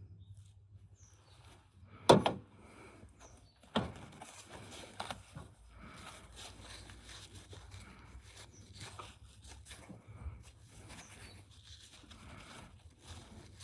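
Hand work on car parts with tools. There is one sharp knock about two seconds in and a second, smaller one near four seconds, then light clinks and scraping.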